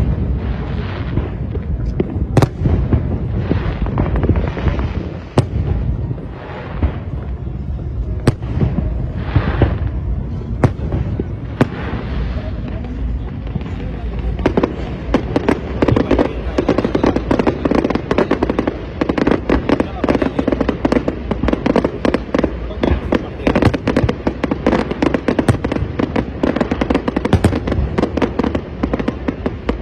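Fireworks going off: separate sharp bangs over a constant low rumble, turning about halfway through into a dense, rapid run of crackling bangs.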